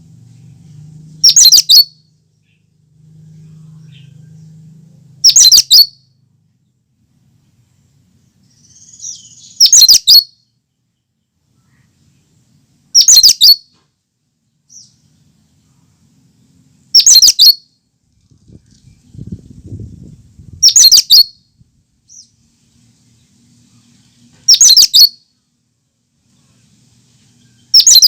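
A cucak kinoi calling: a short, loud, high-pitched burst of a few quick notes, repeated about every four seconds, eight times.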